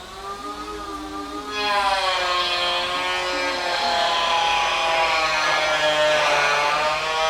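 Electric hair dryer running, a whining motor with its pitch wavering a little; it turns much louder and more rushing about a second and a half in.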